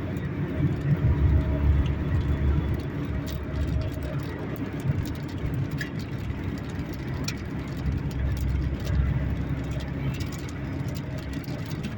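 Raindrops ticking irregularly on a car's body and windshield as rain begins, heard from inside the cabin over a steady low rumble of the car.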